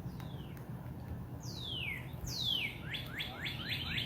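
A songbird singing: two long falling whistles, then a fast run of short falling notes at about four or five a second that starts about three seconds in.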